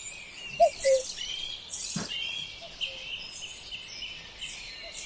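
Several small songbirds chirping and singing over one another in quick, overlapping phrases. Two short, louder, lower notes come just before a second in, and a single click about two seconds in.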